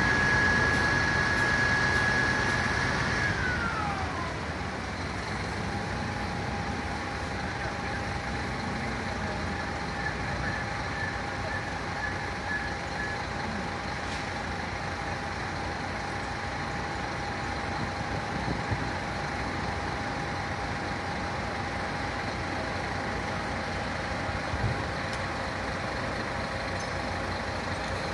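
Fire engine siren holding a steady high wail, then winding down in pitch about three seconds in. Steady vehicle and street noise follows, with a faint constant tone.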